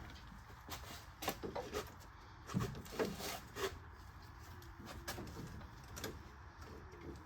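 Scattered light knocks, clicks and clunks, like things being moved or handled, over a faint low hum.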